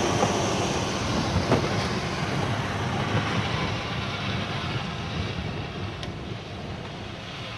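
An off-road 4x4 vehicle's engine and tyres working in snow, a steady, rough noise with a few light knocks, gradually growing fainter.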